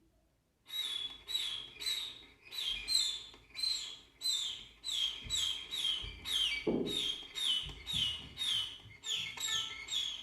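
A baby chick's peeping: a rapid run of short, high, falling cheeps, about two a second, beginning just under a second in.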